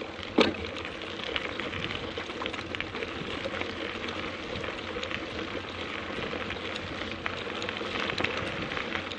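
Mountain bike rolling over a rough dirt and gravel trail: steady crackling tyre noise with many small clicks and rattles, and one sharp knock about half a second in.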